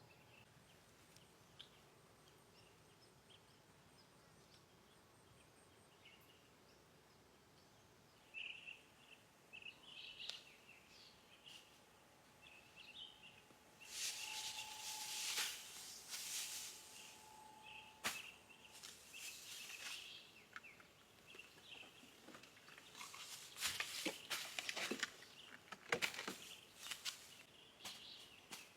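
Birds chirping and calling, starting about a third of the way in, with loud bursts of hissing noise in the second half.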